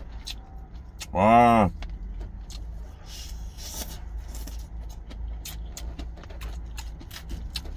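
Close-up chewing of crisp salad greens, a run of small wet crunches and clicks, after a long drawn-out 'wa' of delight about a second in. A low steady rumble runs underneath.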